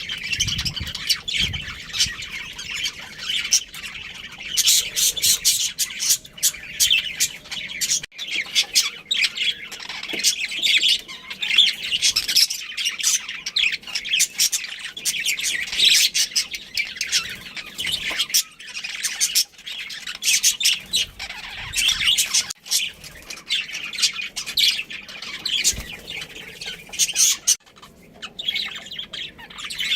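Budgerigars chirping and chattering: a dense, continuous stream of short, high, rapid calls and squawks.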